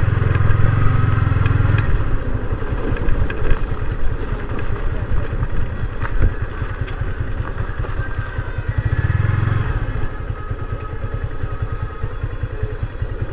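Motorcycle engine running under way at low speed, with scattered knocks and rattles. The engine pulls harder in the first two seconds and again briefly about nine seconds in.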